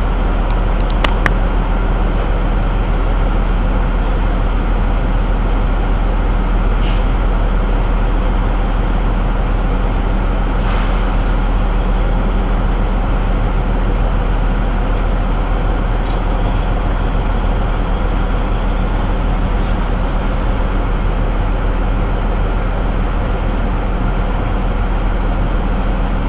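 Heavy truck running steadily, its engine and road noise forming a loud, even hum. There are a few sharp clicks about a second in and a short hiss about ten seconds in.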